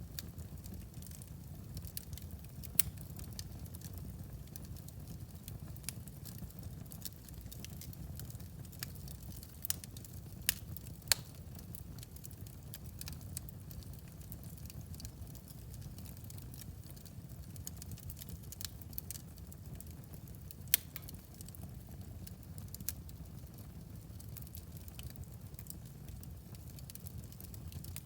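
Fire burning in a fireplace, crackling with irregular sharp pops over a steady low rumble; the loudest pops come a few seconds in, around eleven seconds in, and around twenty-one seconds in.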